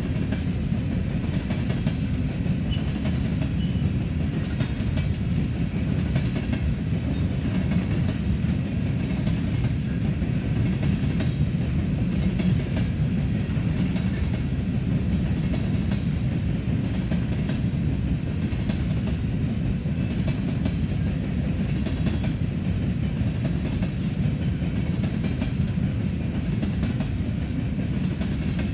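Long, empty freight train's cars rolling past: a steady rumble of steel wheels on rail with a running clickety-clack of wheels over rail joints.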